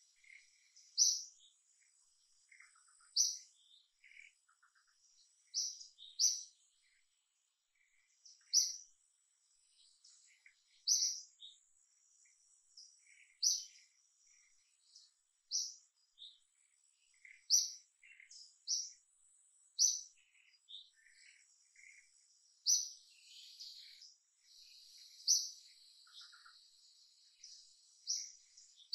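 Short, high-pitched bird chirps repeating every second or two, over a faint steady high insect whine.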